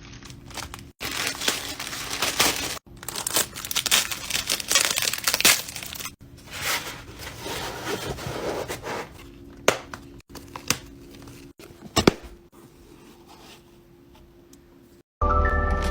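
Packaging being unwrapped: crinkling and tearing plastic and paper in a run of short cuts, with a few sharp clicks near the end.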